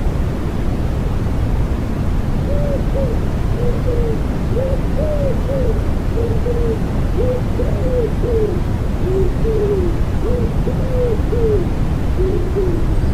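Common wood pigeon cooing in a series of soft, short notes, starting a couple of seconds in and stopping just before the end, over a steady white-noise hiss strongest in the low end.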